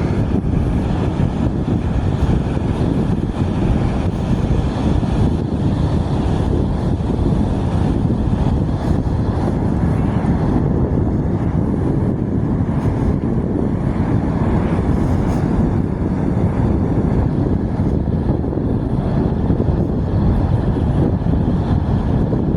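Loud, steady rumbling of wind buffeting the microphone.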